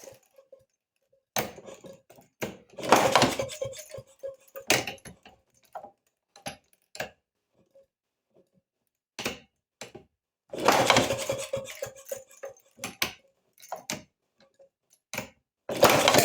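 A 1932 Maytag two-stroke washing-machine engine being turned over to start it: separate bursts of metallic clattering, and near the end it briefly fires with a fast run of pops.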